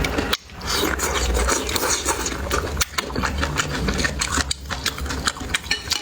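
Close-miked eating noises: a quick, irregular run of small clicks and scrapes from chewing and utensils, over a low steady hum.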